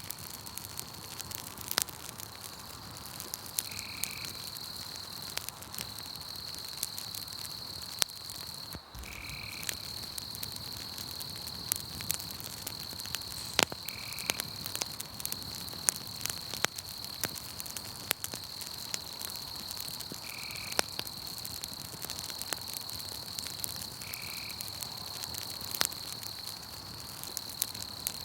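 Campfire crackling with scattered sharp pops, over a steady high trill of night insects such as crickets. A short call repeats every few seconds.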